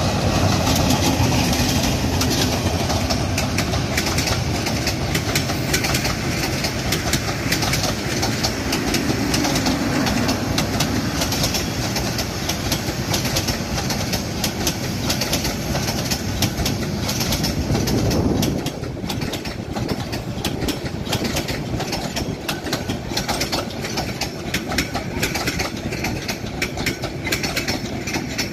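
Bangladesh Railway diesel-hauled passenger train passing close by: the locomotive's engine rumble, then the coaches' wheels clattering rhythmically over the rail joints. The low rumble drops off suddenly about two-thirds of the way through, leaving mostly the wheel clatter.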